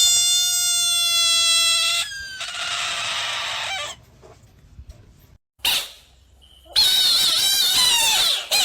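Frog screaming: a long, steady, high-pitched scream for about two seconds, then a hiss for a second and a half, a short burst, and near the end a second, wavering scream.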